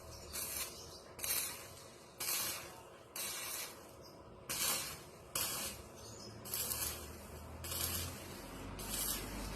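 Short hissing sprays repeated about once a second, each lasting under half a second.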